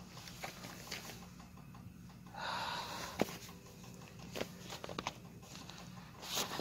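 A person slurping ramen noodles in one breathy burst about two and a half seconds in, with scattered light clicks and taps around it.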